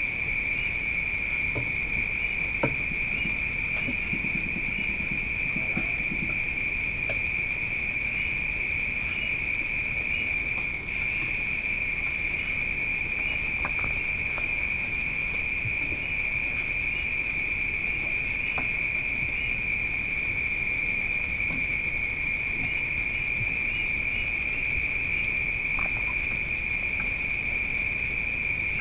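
Night insects, crickets or katydids, keeping up an unbroken high-pitched chirring chorus with a faint regular pulse, plus a few faint scattered clicks.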